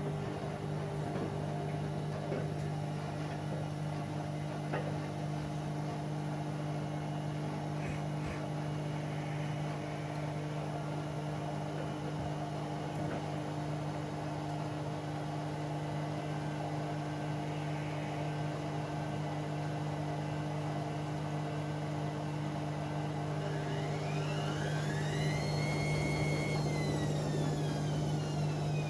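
Bauknecht WA Aquaton 1400 washing machine running with a steady mains-frequency hum typical of its drain pump. Near the end, the drum motor whines up in pitch, holds for a moment and winds back down.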